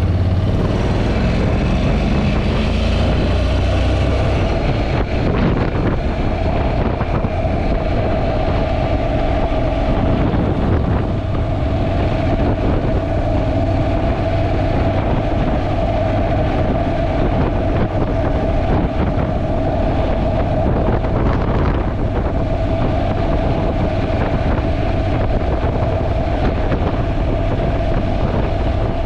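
Wind buffeting an action camera's built-in microphone on a moving Honda NC750X motorcycle, a steady heavy rumble over the bike's parallel-twin engine. The engine's pitch rises in the first few seconds as it accelerates.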